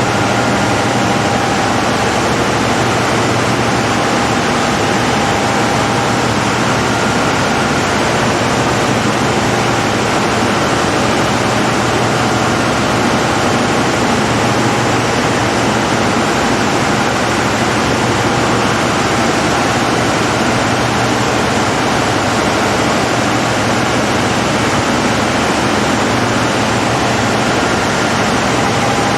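Large diesel generator set running steadily: a loud, even machine noise with a faint high whine over it.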